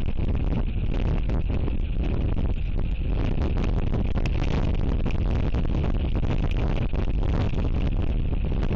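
Strong wind buffeting the outdoor camera microphone: a steady low rumble broken by irregular gusts.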